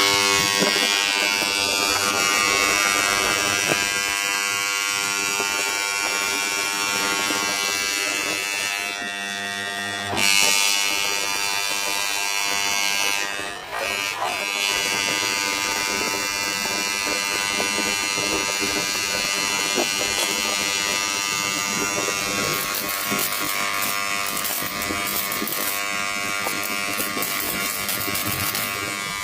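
Small electric motor, like a handheld power tool's, running steadily with a buzzing hum and hiss, briefly changing about a third of the way through.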